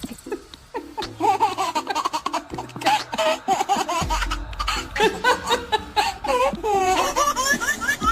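Hearty laughter from about a second in, in quick repeated bursts with rising squeals near the end, over background music with a steady repeating beat.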